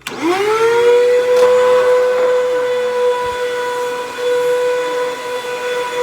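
Hoover WindTunnel 2 Rewind upright vacuum switched on: its motor spins up within about half a second and settles into a loud, steady whine.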